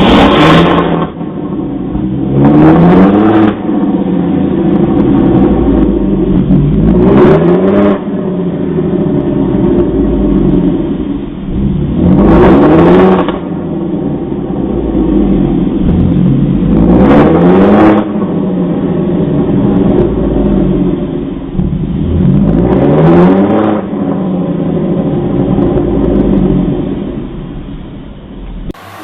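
Supercar engine revving hard, its pitch climbing and then dropping back about six times, every four to five seconds.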